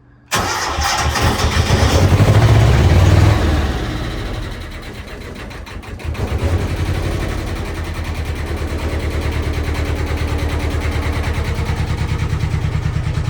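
Narrowboat diesel engine, just preheated, catching and starting about a third of a second in, revving for a few seconds, dipping, then settling into a steady, evenly pulsing idle: it runs, and is quite noisy.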